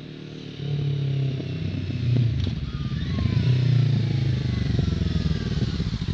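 Kawasaki Ninja 650's parallel-twin engine running under throttle through its exhaust. The pitch changes several times and climbs steadily for about a second near the middle, and the individual firing pulses become distinct near the end.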